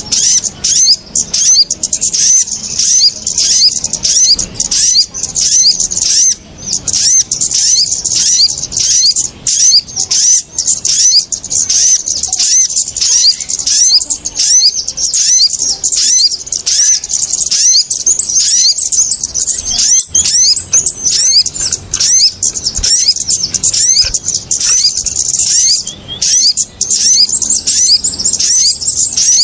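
Small songbirds chirping in a dense, continuous clamour of short, high, sliding notes, many a second and overlapping, with no pauses. This is a bird-lure (pikat) recording of kemade and sogok ontong calls, used to draw small birds down.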